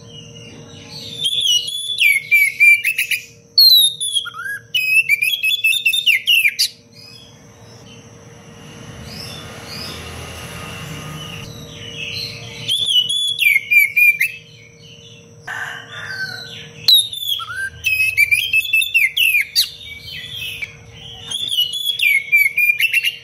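Oriental magpie-robin singing energetically in bouts of rapid, tightly packed whistled phrases, with a pause of several seconds in the middle.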